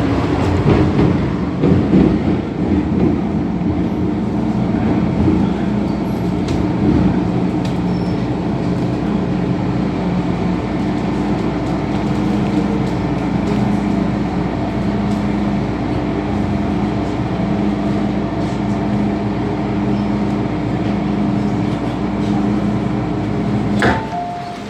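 Inside a carriage of an MTR M-Train electric multiple unit running through a tunnel: the steady rumble of wheels on rail with a low, steady motor hum. The noise drops away abruptly near the end.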